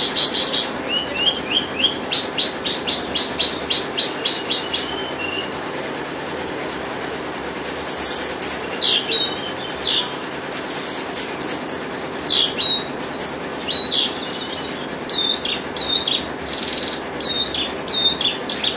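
Horsfield's bush lark (branjangan) singing a long, varied song: series of rapid, evenly repeated high notes and quick trills, with sliding whistled notes in the second half, over a steady hiss.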